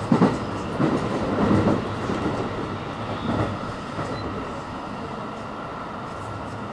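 Special Rapid Service electric train running slowly, heard on board, with a steady running rumble. Loud knocks and clatter from the wheels over the track come in the first two seconds, with two lighter ones about three and four seconds in.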